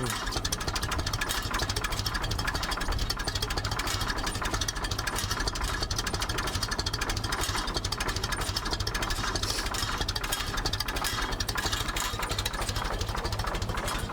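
Ferguson TED 20 tractor's four-cylinder engine idling very slowly and evenly at running temperature, about as low as it will comfortably go.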